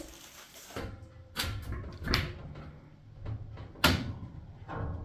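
Scattered knocks and clunks from work on a wood-burning stove's installation, about five separate hits, the sharpest about four seconds in.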